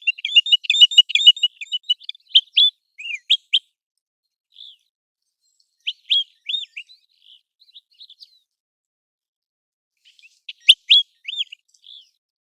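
American golden plover calling: a fast run of short, high chirping notes over the first few seconds, then a few single rising-and-falling whistles, and another short burst of notes near the end.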